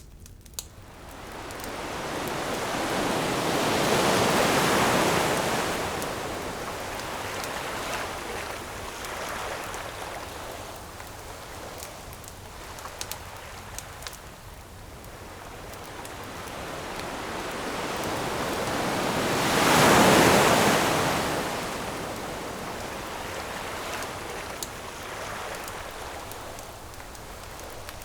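Ocean waves washing onto the shore: a rushing wash that builds and recedes twice, the bigger swell about twenty seconds in. A few faint sharp crackles from a campfire sit under the surf.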